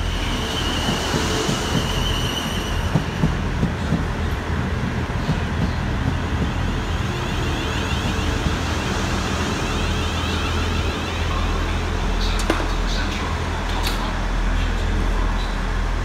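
A train at the station platform, with a steady low hum and running noise throughout and two sharp clicks late on.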